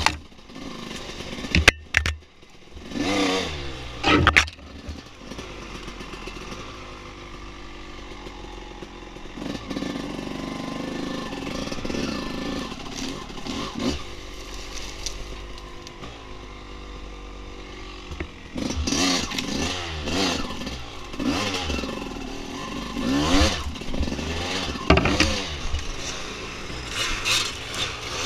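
Dirt bike engine revving up and down on a trail, with a few sharp knocks and clatter about two seconds in, a steadier stretch in the middle, then a run of quick throttle blips near the end.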